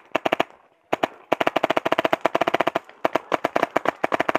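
Compressed-air paintball markers firing in rapid strings of shots, about a dozen a second, with a short break about half a second in before the firing resumes.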